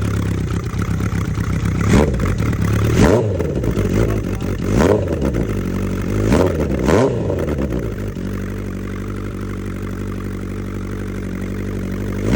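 Honda CB900F's air-cooled inline-four engine on Mikuni racing carburettors, sounding through its exhaust. It is blipped five times with quick throttle revs between about two and seven seconds in, then settles to a steady idle.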